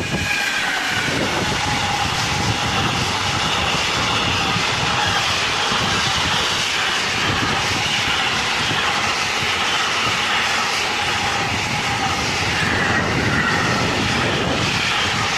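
An SNCF Fret electric locomotive passes at speed, followed by a long line of container wagons rolling by. The wheels on the rails make a steady, loud rush, with high whining tones running over it.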